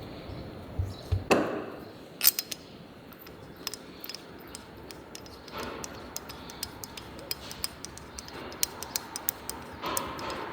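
Irregular small metallic clicks, taps and clinks of hand tools and engine parts being handled on a workbench, with a louder knock about a second and a half in and a sharp clink just after it.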